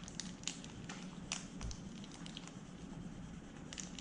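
Faint, scattered clicks and small crunches of a biscuit snack being chewed, a few in quick succession in the first second and a half and again near the end.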